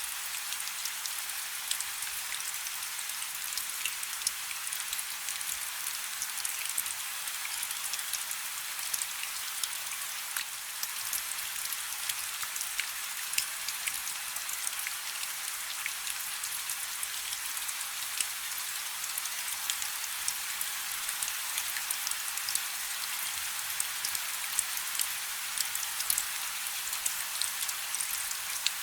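Steady rain falling on a river: an even hiss of rainfall dotted with many small, sharp drop ticks.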